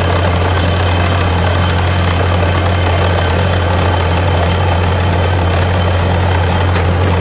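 Borewell drilling rig running steadily, with a loud, even low hum under a constant rushing noise.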